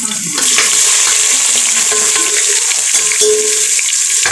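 Onions frying in hot oil in a pan with cumin seeds and garam masala: a loud, steady sizzle that grows stronger about half a second in as the onions take the heat.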